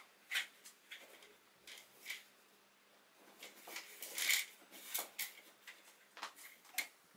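Faint scattered clicks and light knocks, a dozen or so short ones with a pause in the middle.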